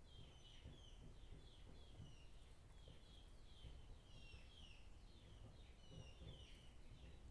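Faint, repeated high chirping from small birds, a few short falling chirps a second, over a low background rumble.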